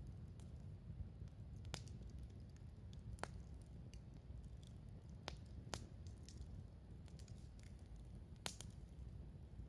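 Wood campfire burning with scattered sharp crackles and pops, about five in the span, over a low steady rumble of the flames.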